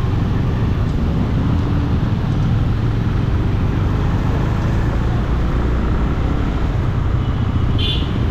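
Benelli 150i motorcycle running steadily on the road, a constant low rumble of engine and road noise, with a short high-pitched beep near the end.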